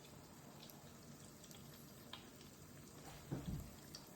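Near silence, with faint handling clicks and a soft low thump about three seconds in, from food being handled on the counter.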